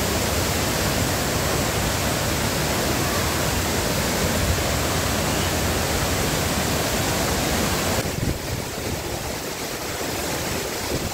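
Waterfall pouring close by: a loud, steady rush of falling water. About eight seconds in it turns slightly quieter and more uneven.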